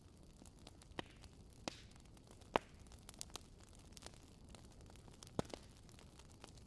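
Campfire crackling: scattered sharp pops and snaps of burning wood, the loudest about two and a half seconds in, over a faint low hiss.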